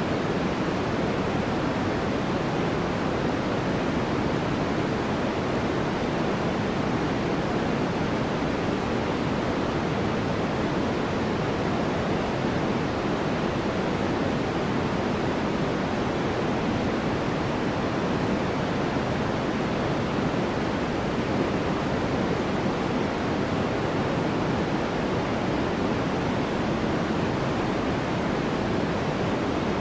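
Steady white-noise track for sleep: an even, unbroken hiss with its weight in the lower range.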